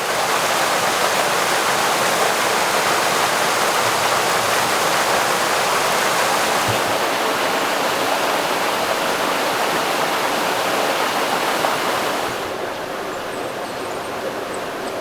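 Rushing water in the canal: a steady, loud rush that eases somewhat about twelve seconds in.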